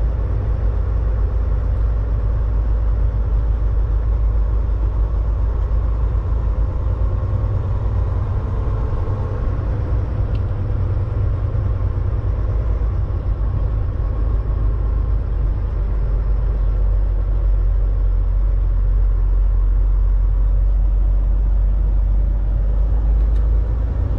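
Volvo VNL 860 semi truck's diesel engine running, a steady low rumble.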